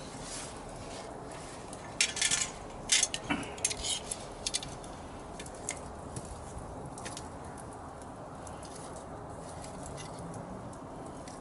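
Pieces of split firewood knocking and clacking together as they are handled. A quick run of sharp knocks comes about two seconds in, then a few scattered ticks over the next few seconds, over a steady low hiss.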